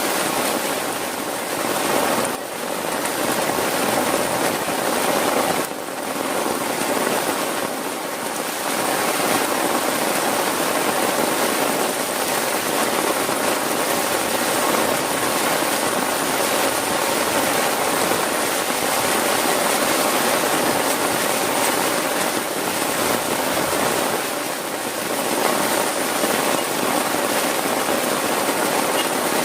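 Heavy rain falling steadily, an even hiss that eases off for a moment a few times.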